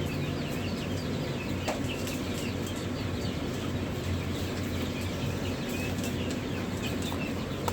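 Many small poultry birds peeping and chirping together in a dense, continuous chatter, over a steady low hum.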